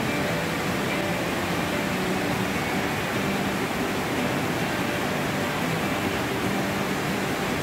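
Steady rushing of water cascading down a waterfall, an even, unbroken noise.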